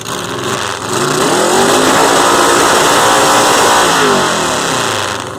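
Sand rail's engine revved up, held at high revs for about three seconds, then let back down, run flat out for a decibel reading.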